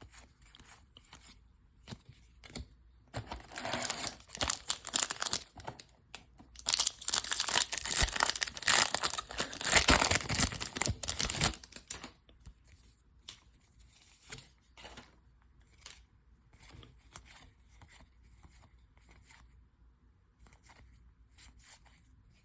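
A baseball card pack's foil wrapper being torn open and crinkled: a short burst of crackling, then a longer, louder stretch of tearing and crumpling lasting about five seconds. After that only faint scattered ticks of cards being handled.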